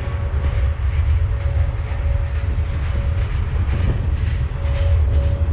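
Freight train's cars, covered hoppers and boxcars, rolling steadily past. There is a constant low rumble, repeated clicks of wheels over the rail joints, and a faint ringing tone that comes and goes.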